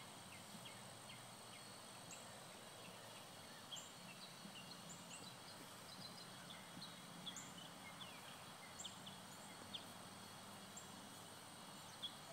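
Near silence: quiet outdoor ambience with faint, scattered high bird chirps.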